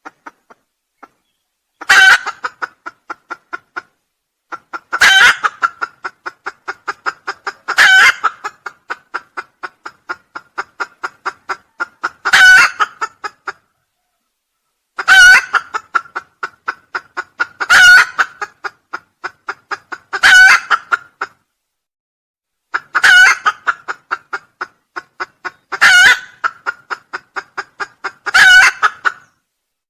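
Junglefowl crowing over and over as a lure call, about ten loud calls a few seconds apart, each trailed by a quick run of fading repeats.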